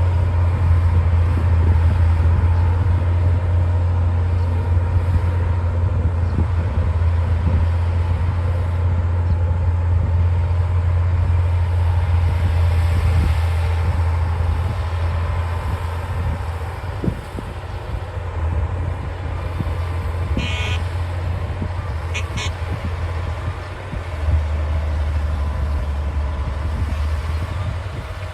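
D60 bulldozer's diesel engine running with a steady low drone that eases off about two-thirds of the way through and shifts again near the end. Two short high-pitched squeaks come a couple of seconds apart.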